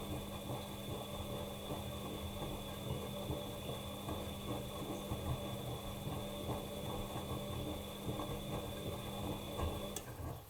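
Bosch Maxx Advantage WFCX2440 washing machine running during a wash, a steady motor hum and high whine over the irregular sloshing and tumbling of the load. The motor stops with a click about ten seconds in.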